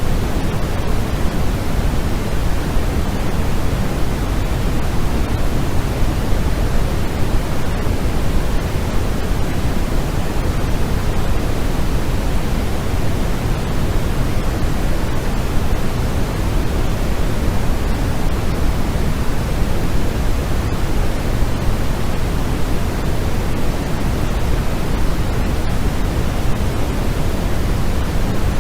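Steady, unchanging white noise for sleep, heavier in the low end than the high, without a break or change.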